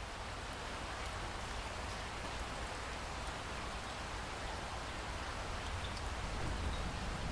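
Steady rain falling, an even hiss that grows slightly louder, with a low rumble underneath.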